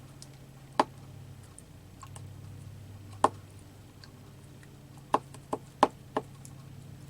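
Sharp, separate clicks and taps of craft supplies being handled on a desk: two single knocks, then a quick cluster of four near the end, over a steady low electrical hum.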